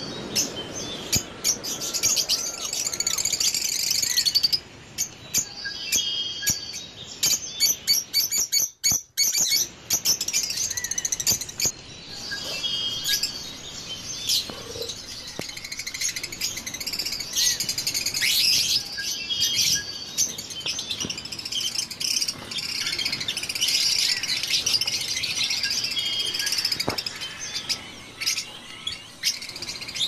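Many small caged aviary birds chirping and calling at once: dense, overlapping high-pitched chirps and short trills, with a brief break about nine seconds in.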